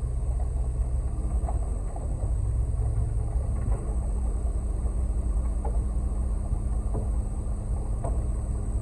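Concrete mixer truck's diesel engine running steadily as a low rumble, with a steady hum joining in about three and a half seconds in.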